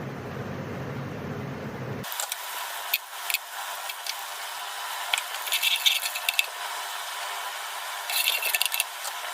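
Kitchen utensils clinking, rattling and scraping in short bursts: once about a second after the start, again for about a second and a half in the middle, and again near the end. A low rumble in the first two seconds cuts off abruptly before them.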